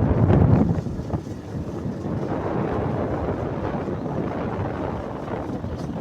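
Wind buffeting the microphone over the steady rumble of a moving vehicle, loudest in the first second.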